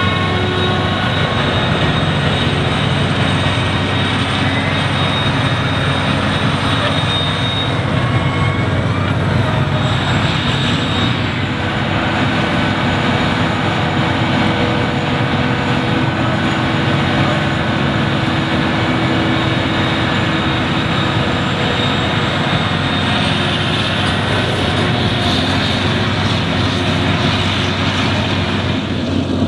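Heavy farm machinery running steadily under load: a maize forage harvester and tractors, with several engine tones layered over a constant low hum.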